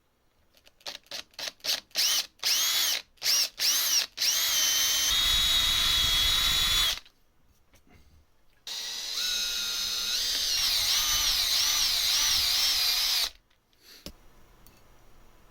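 Hand-held electric drill blipped in a string of short trigger pulses, then run in two long stretches, its motor whine wavering under load, while drilling the hole for an M4 grub screw.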